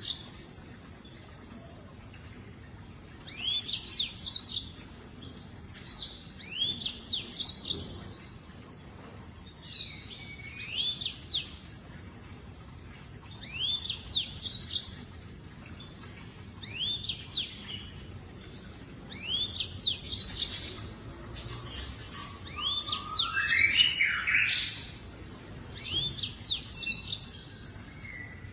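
Lemon-breasted canary singing: short bursts of quick, upswept chirps repeated every two to three seconds, with a longer, lower rising run of notes near the end.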